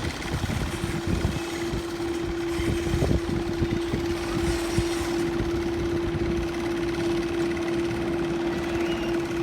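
A steady machine hum holding one constant tone, over a low, uneven rumble.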